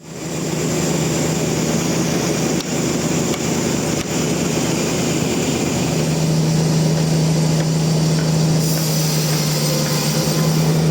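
Sawmill machinery running steadily, a constant motor hum that holds one pitch and grows stronger about six seconds in, with a couple of faint knocks.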